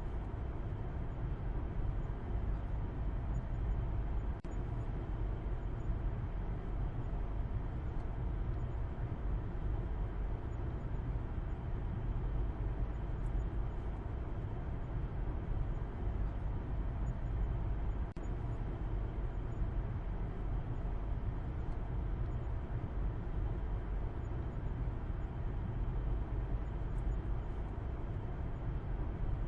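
Steady low rumble of a car driving, road and engine noise running evenly with no change in speed.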